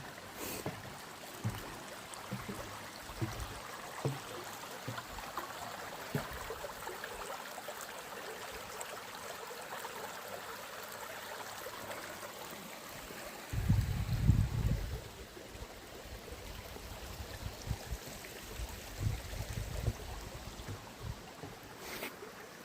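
Woodland stream running steadily, with scattered soft low knocks and a louder low rumble lasting about a second and a half about two-thirds of the way through.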